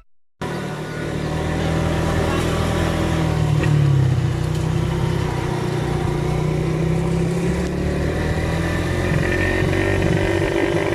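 Motor vehicle engine running steadily, its pitch drifting slightly up and down, as on a vehicle in motion.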